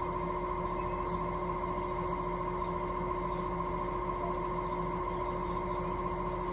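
Outdoor air conditioning condenser unit running with a steady hum made of several steady tones that do not change.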